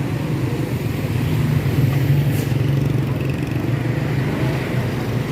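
A motor vehicle's engine running steadily with a low hum, along with road noise.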